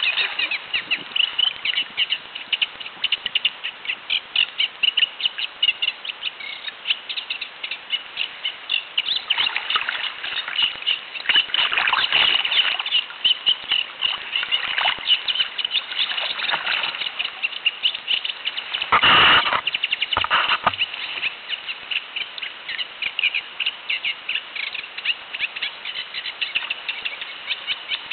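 A small warbler singing from the reeds: a long, unbroken run of rapid, chattering repeated notes. The recordist takes it for a reed warbler but is not sure of the species. About two-thirds of the way through, a brief loud noise briefly covers the song.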